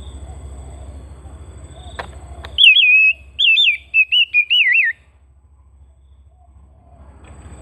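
Oriental magpie-robin (kacer) singing: a run of loud, wavering whistled notes with quick rising and falling swoops, lasting about two and a half seconds from a few seconds in. Before it there is a steady low background hum with a single sharp click.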